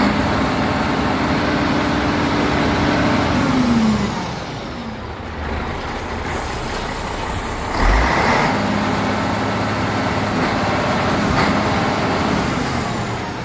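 MAN 33.403 tipper truck's diesel engine revved and held, then falling back about four seconds in. It is revved up again with a sudden rise about eight seconds in and held until it drops near the end.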